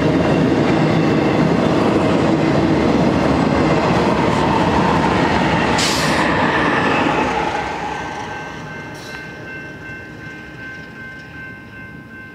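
BNSF double-stack container train passing: rumble and wheel clatter of its last well cars and rear locomotive, fading away from about seven seconds in. A few steady high tones stay after the train noise fades, with the crossing gates still down.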